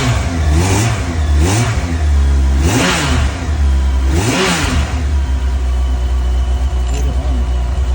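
Yamaha FJR1300's inline-four engine running, revved in about five short throttle blips and then settling to a steady idle. It is running on a newly fitted starter motor, which has cured the bike's no-start fault.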